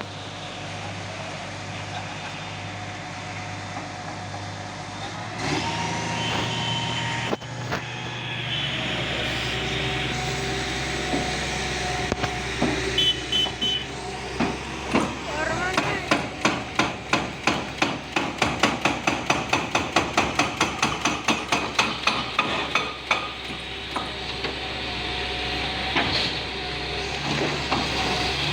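A heavy demolition machine's engine runs steadily. From about halfway, a rapid, even run of hammering impacts, roughly three a second, goes on for several seconds.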